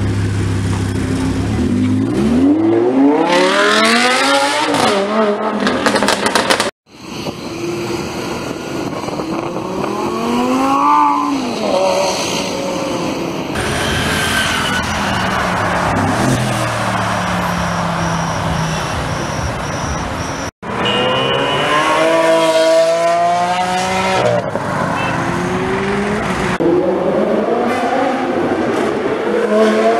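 Supercar engines revving hard and passing, broken by two abrupt cuts. First a Lamborghini pulls away and revs up through a gear change, the pitch climbing twice. Then cars go by with engine pitch rising and falling, and near the end an engine revs up through several gears.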